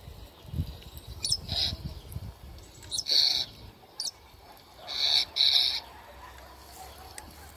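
Bird calls: short harsh calls, each a quick thin whistle followed by a brief rasp, repeated several times at uneven intervals.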